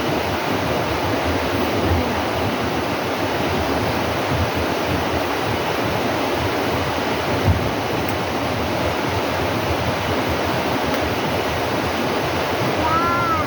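Steady rush of flowing water, like a stream or waterfall, at an even level. A brief high chirp sounds near the end.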